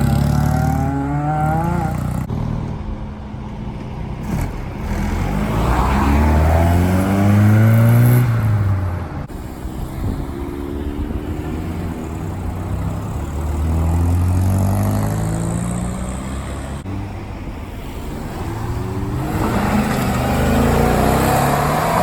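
Several cars driving past one after another, each engine rising in pitch as it accelerates away and then fading.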